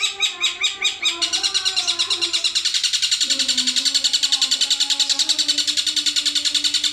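Songbird call used as masteran for contest birds: a fast, even chatter of high chirps, about ten a second, over a lower wavering whistle.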